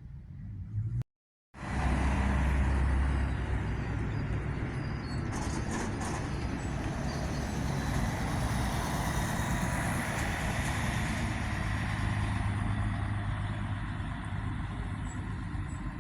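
Long-distance coach's diesel engine running close by with a deep steady drone and hiss, loudest right after a cut about a second in and easing slowly over the rest.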